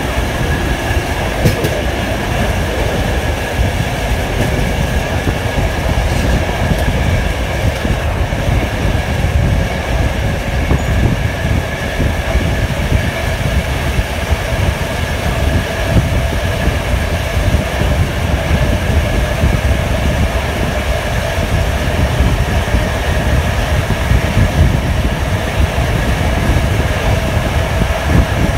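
TLK passenger train running along the tracks, heard from a carriage window: a steady, loud rumble of wheels on rails.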